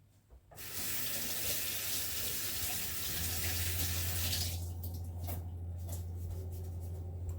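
Kitchen tap running for about four seconds, then shut off, followed by a few light clicks. A low steady hum comes in partway through and carries on.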